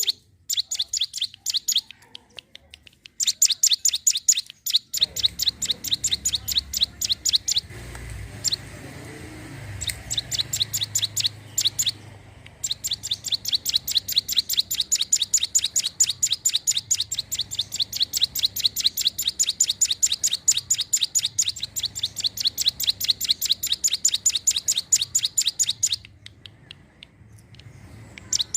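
Hill prinia (ciblek gunung) singing vigorously: long runs of rapid, high, evenly repeated chirps, about five a second, broken by a few short pauses. A faint low hum sits underneath.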